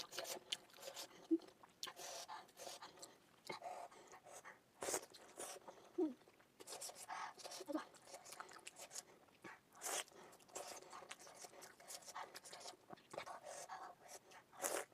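Close-miked eating sounds of momo dumplings: wet chewing and lip smacks with scattered sharp clicks, sped up to double speed.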